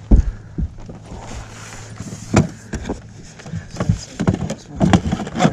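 Irregular knocks and thumps in a boat while a hooked pike is being played and the net readied, the loudest just after the start, over a steady low hum.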